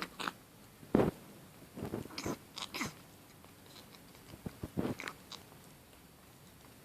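Wet Persian kitten snorting through its nose in short pig-like snorts: one near the start, the loudest about a second in, then two quick runs of several snorts each.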